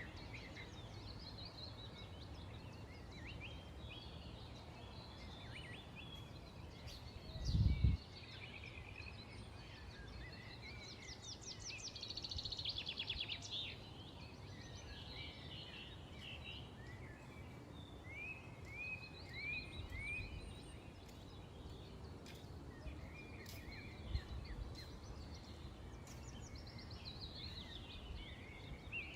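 Several small birds chirping and trilling: short rising and falling notes, with a fast trill of quick repeated notes near the middle and another near the end, over a steady low background hum of outdoor noise. A brief low thump stands out about a quarter of the way in.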